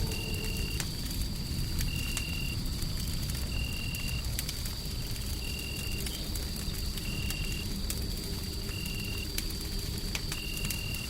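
Wood fire crackling in a hearth, with sharp pops scattered over a steady low rumbling hum of white noise. Throughout, a constant thin high whine runs alongside a short high chirp that repeats about every second and a half.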